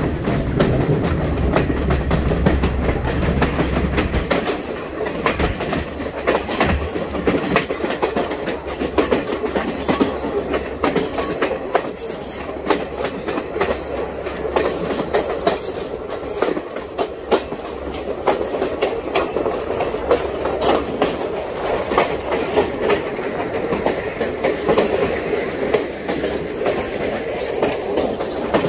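Sri Lanka Railways passenger train running along the track: a steady rolling wheel-and-rail noise with many irregular clicks and knocks from the wheels over the rails. A deep rumble underneath drops away about four seconds in.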